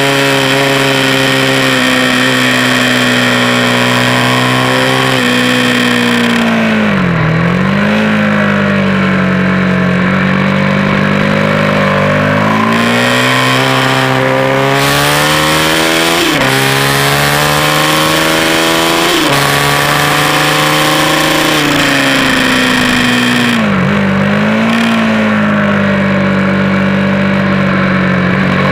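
Track motorcycle's engine at high revs, heard from an onboard camera. The pitch holds high, falls sharply about a quarter of the way in and again near the end as the bike slows and shifts down, and in between climbs in steps with quick drops as it shifts up under acceleration.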